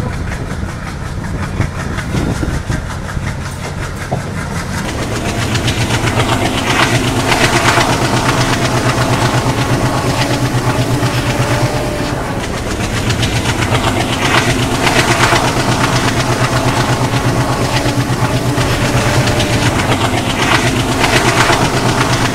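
Passenger train running along the track, heard from an open coach window: a steady rumble of wheels on rail with rushing air. It gets louder about five seconds in, with a few brief louder swells.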